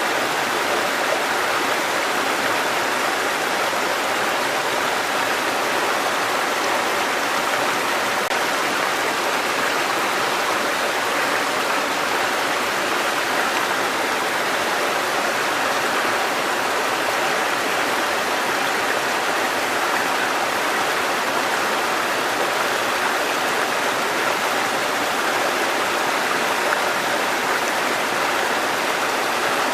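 Water cascading over rocks in a mountain stream, a steady even rush with no change.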